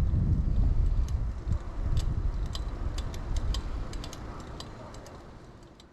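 Riding sounds of a 2000 Kona Blast mountain bike from a chest-mounted camera: a low rumble of tyres and wind with scattered light clicks and rattles. The sound fades out steadily over the last few seconds.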